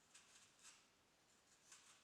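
Faint, soft scratching strokes, about five in quick, uneven succession, over near-silent room tone.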